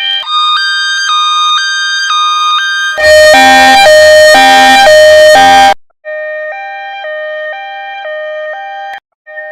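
Two-tone hi-lo emergency siren, switching between two pitches about twice a second. It is heard in edited versions one after another: first pitched high, then a much louder, distorted, bass-boosted version, and after a brief break a plainer, lower one that cuts out briefly near the end.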